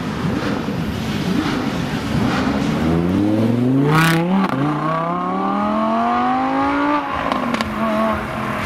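2016 Audi R8's 5.2-litre V10 pulling away and accelerating hard. The revs climb steeply, drop at a gear change about four seconds in with a short crack, then climb again through the next gear until about seven seconds in, when the driver lifts off.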